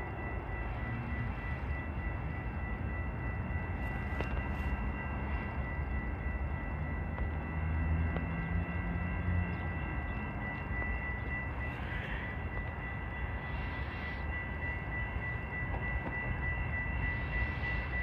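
Approaching train, a low steady rumble from its locomotive, with a steady high-pitched ringing tone over it.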